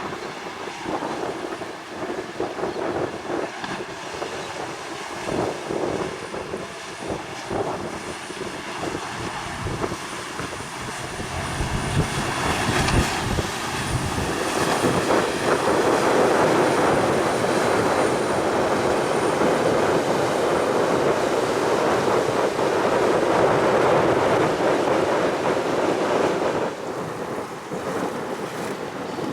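Gusty wind buffeting the microphone over a continuous rushing noise. The noise grows louder about twelve seconds in and drops back near the end.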